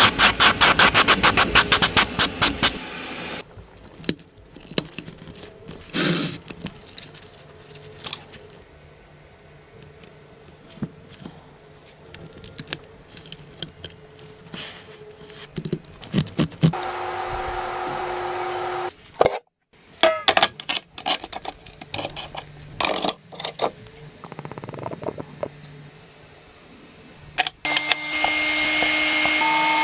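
Workshop work sounds: a fast run of clicks for the first few seconds, then scattered metallic knocks, clinks and scrapes of tools, with a steady machine hum a little past the middle and again near the end.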